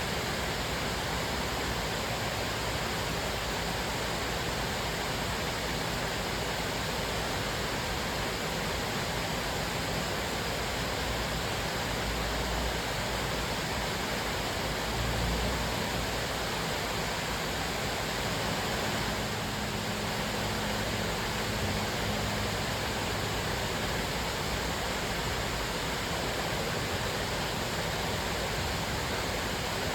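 Cascading waterfall: a steady, even rush of falling water.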